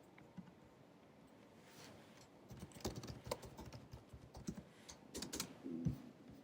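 Typing on the built-in scissor-switch keyboard of a 16-inch 2019 MacBook Pro: soft key clicks in an irregular run that starts about halfway through, after a quiet pause.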